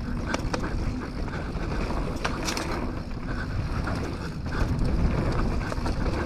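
Canyon Torque mountain bike riding down a dirt trail: steady tyre rumble and wind on the GoPro's microphone, with sharp clicks and clatters of the bike over bumps, a few of them a little after the start and around two seconds in.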